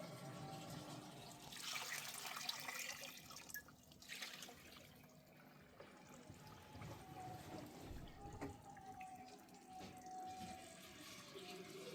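Faint running water, a tap-like flow that swells for a couple of seconds near the start.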